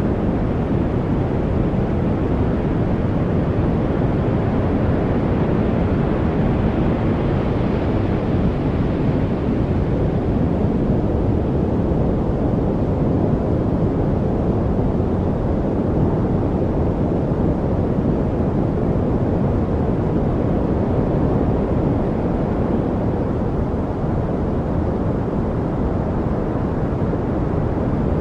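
Steady study white noise with a deep, rushing tone, most of its weight in the low end. The upper hiss brightens slightly for a few seconds about a quarter of the way in.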